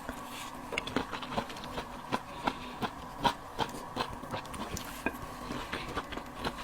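Close-miked eating sounds: a quick, irregular run of wet clicks and crunches, several a second, from chewing and handling food, over a faint steady hum.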